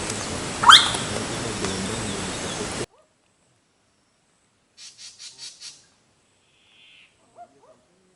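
Bird calls over a steady hiss. A loud call sweeps upward about a second in. The hiss cuts off abruptly, then a quick run of five raspy notes follows, with a few faint calls near the end.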